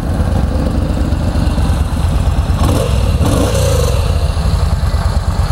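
A 2013 Yamaha V Star 950's fuel-injected V-twin idling steadily through its factory 2-into-1 exhaust, pretty quiet.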